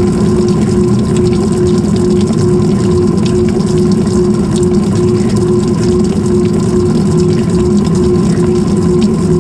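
GE top-loading washer running, heard from inside its drum: a steady motor and pump hum that pulses a few times a second, over rushing, sloshing water.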